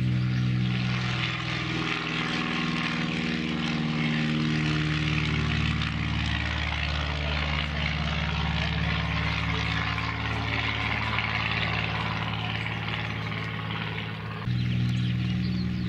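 Cessna 172's piston engine and propeller running steadily, its pitch drifting slightly. Near the end the sound dips, then jumps abruptly louder.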